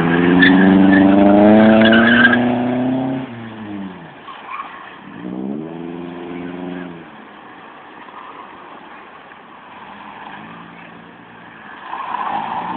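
A 1992 Toyota Camry's engine revving hard, its pitch climbing for about three seconds before dropping off. A shorter rev rises and falls a couple of seconds later, and a fainter one comes near the end.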